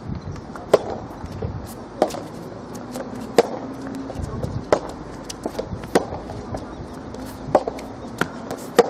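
Soft tennis rally: the soft rubber ball is struck back and forth by rackets, sharp hits about every second and a quarter, with smaller clicks of ball bounces and footwork between them.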